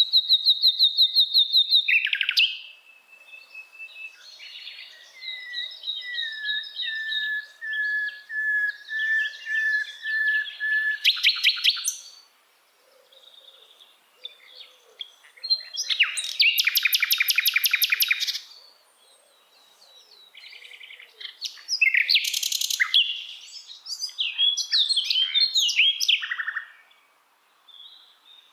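Songbird singing in varied phrases: bursts of rapid, high repeated trill notes, a run of clear whistled notes in a lower register, and quick chattering phrases, with short pauses between songs.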